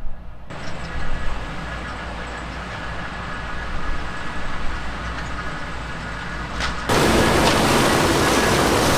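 Heavy diesel farm machinery at work in sugar beet harvesting, running steadily with a low rumble and a faint engine whine. The sound changes abruptly about half a second in, and again near seven seconds, where it turns louder and becomes a dense rattling noise.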